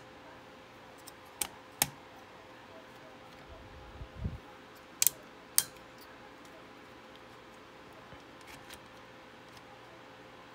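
Sharp clicks and taps of small hardware parts being handled while fitting a CPU cooler: a few scattered clicks, a brief low thump about four seconds in, then two louder clicks just after.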